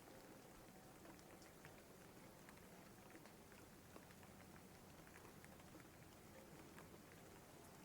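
Faint, steady rain with many scattered drop ticks.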